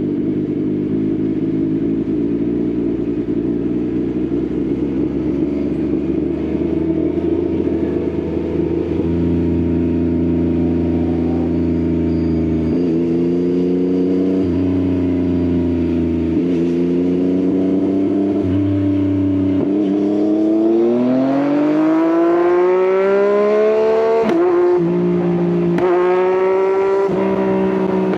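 Yamaha XSR900's three-cylinder engine through an Akrapovič exhaust, riding at a steady throttle, then revving up with a long rising note about two-thirds of the way in and shifting up twice near the end.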